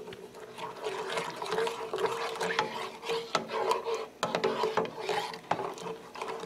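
Spoon stirring butter, cream and garlic in a saucepan: irregular scrapes and light clicks against the pan, with the liquid swishing.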